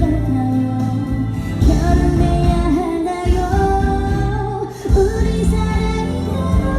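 Live K-pop ballad: a female singer's amplified vocal over the backing music, heard from the audience.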